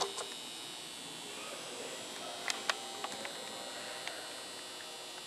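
Light clicks and taps of hands working wood glue into a cracked wooden longboard deck, the two sharpest about two and a half seconds in, over a steady faint hum.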